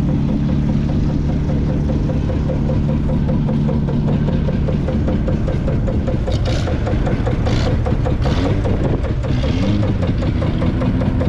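1955 Field Marshall Series 3's 5.1-litre single-cylinder two-stroke diesel engine running steadily. Several brief hissing noises come in the second half.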